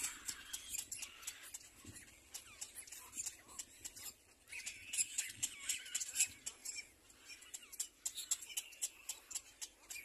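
Bird calls: rapid series of short, high chirps and ticks, busiest about five seconds in and again near the end, with a few faint squeaky calls among them.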